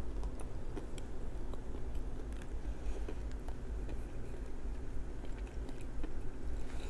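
Close-up chewing of a bite of honey almond soft pretzel: wet mouth sounds with many small crunchy clicks from the crisp topping.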